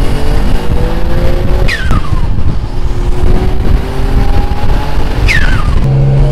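Mitsubishi 3000GT VR4's built twin-turbo 6G72 V6 with straight-pipe exhaust, revving hard under acceleration, its pitch climbing steadily. Twice, about one and a half seconds in and again about five seconds in, the pitch drops at a shift and a brief falling whistle sounds.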